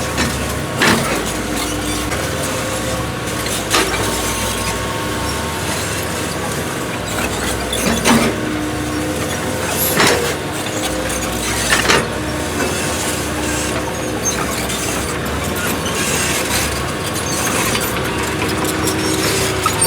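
Excavator's diesel engine running steadily under load, its note shifting now and then, with several sharp metallic knocks a few seconds apart.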